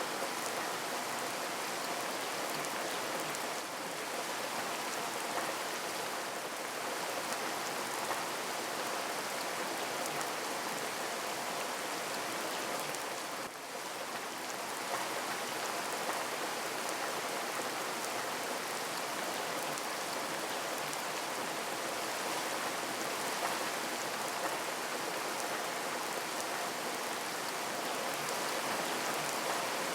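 Steady rain without thunder, a dense even hiss of falling rain with fine drop patter, dipping briefly about halfway through.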